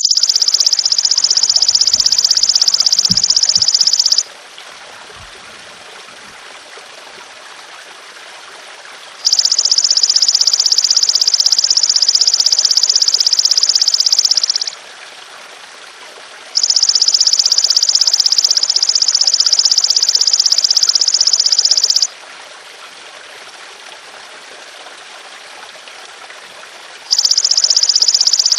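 Belalang emas ('golden grasshopper') singing insect calling in long, high buzzing trills of about four to six seconds each, four of them with pauses of a few seconds between. Beneath them runs a steady trickle of running water.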